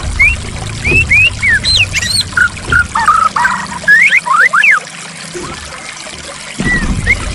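White-rumped shama (murai batu) singing a run of short whistled notes that rise and fall in pitch, over trickling, splashing water. The water noise drops away for about two seconds past the middle, then returns.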